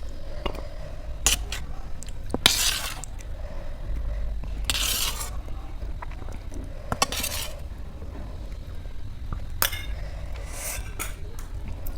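A spoon scraping and clinking against a plate or bowl as chole gravy is spooned aside, in several short scrapes with sharp clinks between them.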